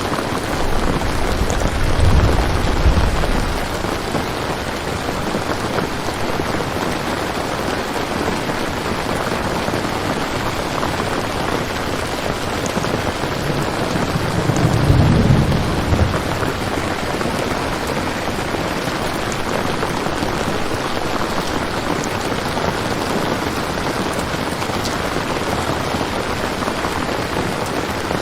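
Steady heavy rain, with two low rolls of distant thunder, one about two seconds in and another about halfway through.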